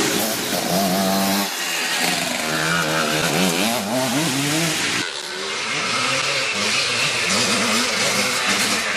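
Classic twinshock motocross motorcycles racing, their engines revving up and down as riders work the throttle and shift. Several engines overlap, with sudden changes in the sound about a second and a half in and again about five seconds in.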